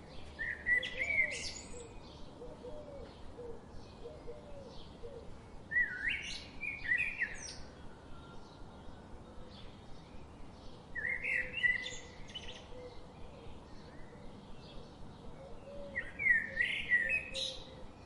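A songbird singing the same short phrase four times, about every five seconds, over fainter chirping from other birds.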